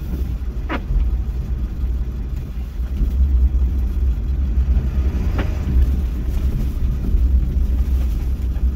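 Pickup truck driving, a steady low engine and road rumble heard from inside the cab.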